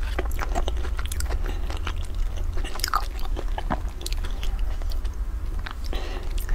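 Close-miked chewing and wet mouth sounds of eating a soft, sticky pan-fried bun, with many short clicks and smacks scattered throughout.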